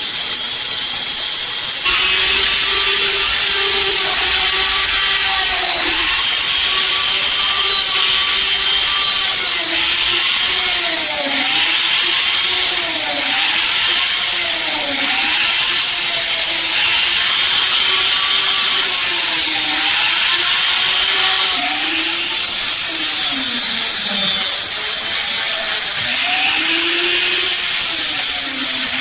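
Electric power tool motor running at high speed, its pitch dipping and recovering again and again as it is pressed against the metal workpiece and let off, over a steady abrasive hiss.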